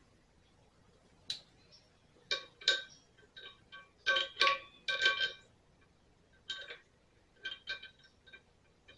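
Small metal parts clinking and tapping together, a dozen or so sharp strikes in irregular clusters, each with a brief bell-like ring.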